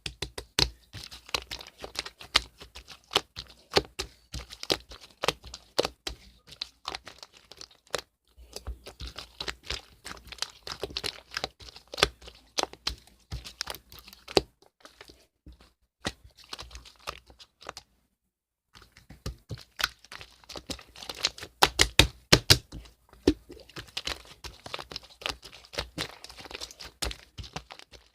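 Slime being squished and stretched by hand, giving dense, irregular crackling and popping clicks, broken by two brief pauses.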